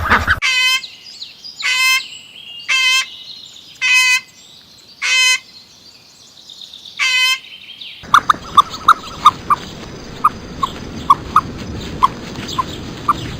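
Six short, pitched animal calls about a second apart. About eight seconds in they give way to many quick, high chirps over a steady background hiss and a thin high whine.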